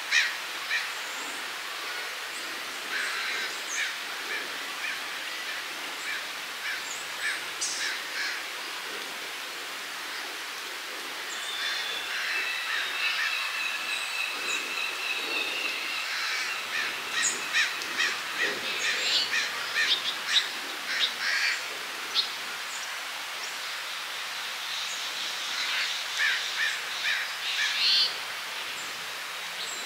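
Wild birds calling: scattered short chirps and calls coming in clusters, with a steady, high-pitched song held for a few seconds from about twelve seconds in.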